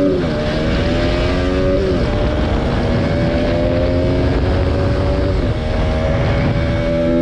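Sport motorcycle engine running at cruising speed over a low rushing noise. The note drops just after the start, then holds steady with small shifts in pitch about two seconds in and again near five and a half seconds.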